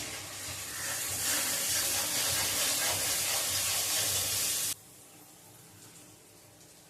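Food sizzling in hot oil in a pan: a loud, even hiss that swells about a second in and cuts off abruptly about two-thirds of the way through.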